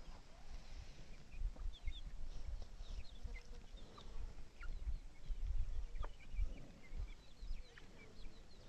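Birds chirping: many short, high chirps, mostly falling in pitch, scattered throughout over an uneven low background noise.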